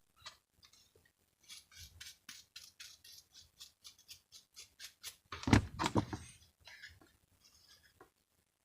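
Faint, quick scratching and clicking, about three or four strokes a second, of small-tool work on a moped electric starter's armature, its commutator channels being cleaned out; a louder knock of handling comes about five and a half seconds in.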